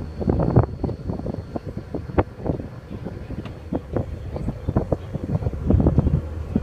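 Wind buffeting the microphone in irregular gusts on the deck of a moving ferry, over a steady low rumble of the boat's engines.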